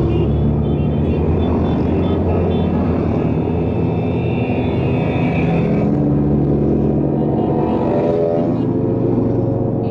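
Motorcycle engines running loudly in a group ride, their pitch rising and falling as the bikes rev and change speed.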